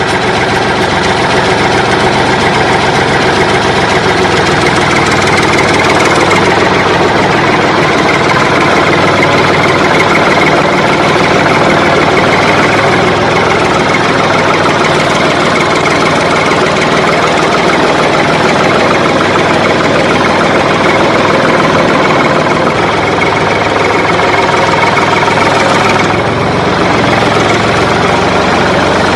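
A vehicle engine running steadily at idle, a continuous even drone that shifts slightly in tone a few seconds before the end.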